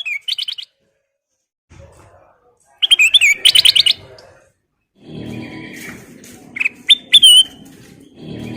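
Kutilang emas bulbul singing loudly in three short bursts of quick whistled notes, near the start, about three seconds in and about seven seconds in. The later bursts include drawn rising-and-falling whistles. A steady low background rumble comes in about halfway through.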